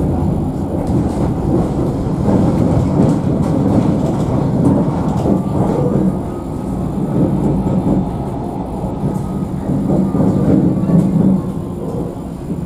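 Alstom Citadis tram running along its track, heard from inside the car: a steady rumble of wheels and running gear that swells and eases, with a faint high whine through the middle.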